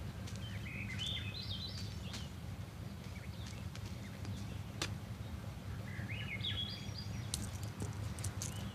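A bird calling twice, each call a short phrase of rising chirps, over a low steady outdoor rumble, with a few faint clicks.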